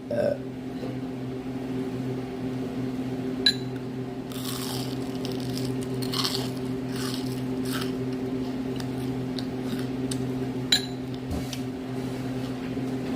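Steady humming of a small electric motor or appliance, with a sharp click about three and a half seconds in and another near the end, and some brief rustling in between.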